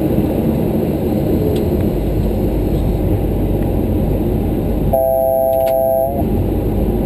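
Steady rushing noise in a Boeing 737-300 cockpit during landing. About five seconds in, a steady tone of several pitches sounds for a little over a second while the rest of the noise briefly drops away.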